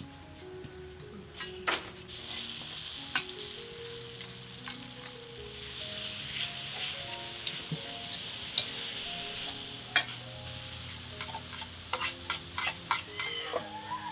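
Food sizzling in hot oil in a steel wok as a metal spatula stirs and scrapes it, with frequent sharp clinks of the spatula on the wok. The sizzle starts about two seconds in, and the clinks come thicker near the end. Soft background music plays underneath.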